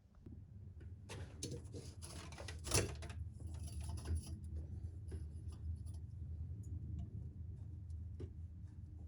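Hands working on sink drain pipe parts: scattered small clicks and rubbing, with one louder knock a little under three seconds in, over a steady low hum.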